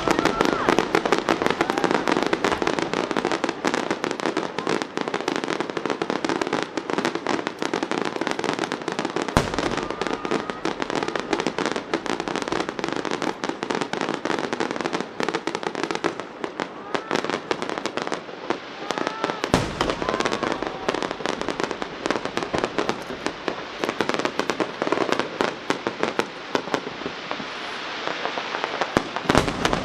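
Starmine fireworks firing in rapid sequence: a dense, unbroken crackle of shell bursts and small bangs. Two deep booms stand out, about nine seconds in and again about ten seconds later.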